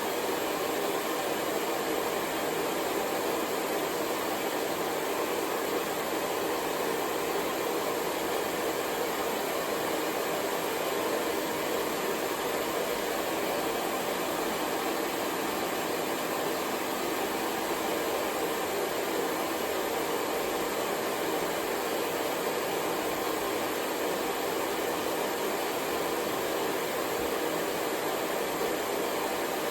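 Hair dryer running continuously: an even, steady rushing hiss with no change in pitch or loudness.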